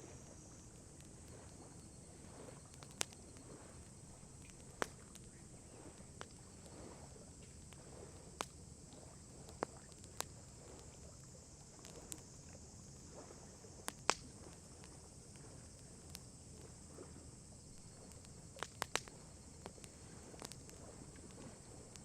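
Wood campfire crackling: irregular sharp pops and snaps, a dozen or so spread out, over a faint steady high hiss.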